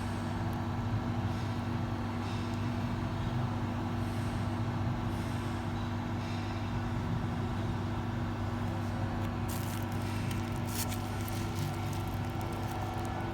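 Stepper motors and their drive box, switched on, humming steadily with several fixed tones: the unexplained noise that appears when the control box is powered on. A few sharp clicks come about ten seconds in.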